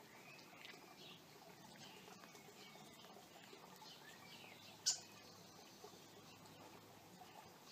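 Faint birdsong, short rising and falling calls, with a single sharp click about five seconds in.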